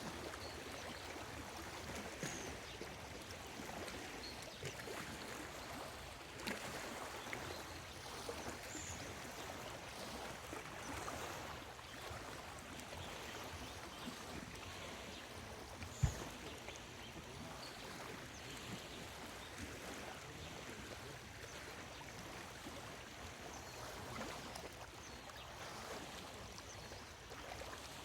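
Small lake waves lapping and splashing at the shore in a steady wash, with a few brief, high bird calls. About halfway through there is one short low thump.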